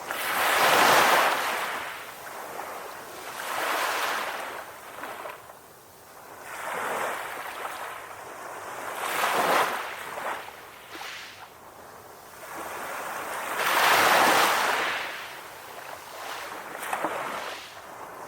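Calm ocean waves washing in, the surf noise swelling and fading every few seconds, with the biggest swells just after the start and about three-quarters of the way through.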